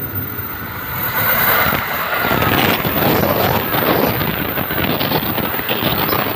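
Passing train: a steady rumble and rattle of wheels on the track, growing louder about a second in.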